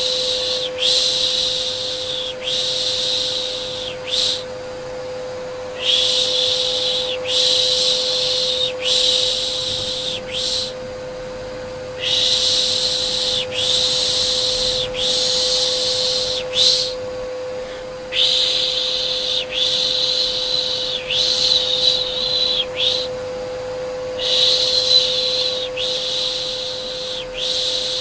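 Rhythmic shushing, 'shh' about five times in a row with a short break roughly every six seconds, over the steady hum of a vacuum cleaner.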